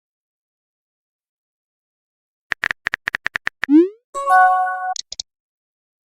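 Synthesized electronic sound effects that start after a couple of seconds of silence: a quick run of about ten clicks, then a short rising pop, then a brief chime-like chord and a few high blips.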